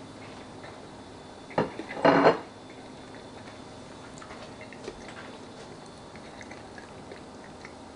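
A person quietly chewing a bite of chicken wing, with faint small ticks and taps. About two seconds in there are two short loud sounds close together, the second a brief voice-like noise from the eater.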